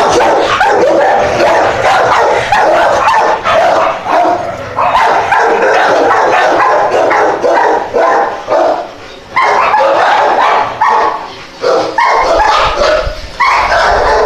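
Small dogs barking and yipping loudly, almost without pause, their barks overlapping.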